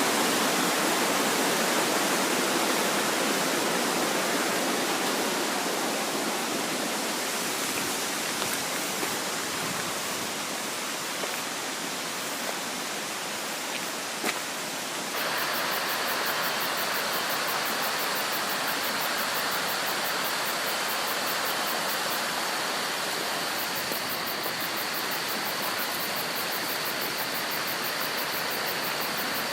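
Creek water flowing steadily, a continuous rushing sound. About halfway through it changes abruptly to a slightly louder, brighter rush.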